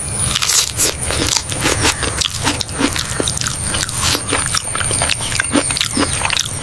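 Chewing and crunching of people eating, a dense run of irregular crackling clicks, over a faint steady high-pitched whine.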